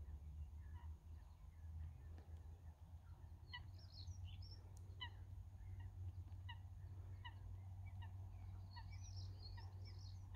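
Birds calling: a run of short, falling calls repeated roughly every second from a few seconds in, with higher chirps mixed among them, over a faint low steady rumble.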